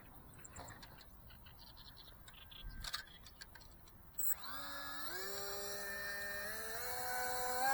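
Small brushless motor (RCX NK1103, 10000KV) and 3-inch propeller of a tiny electric RC plane starting up about four seconds in, its whine stepping up in pitch several times as the throttle is raised. A few faint clicks come before it.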